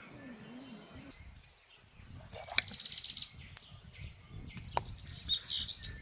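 Songbirds singing: a fast trill of repeated high notes about two and a half seconds in, and a short warbled phrase near the end, over a low rumble and a couple of sharp clicks.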